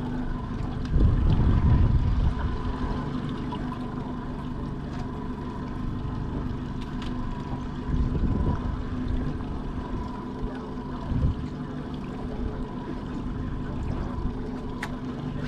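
Boat engine running at a steady drone while under way, with louder low rumbling surges about a second in and again around eight seconds in.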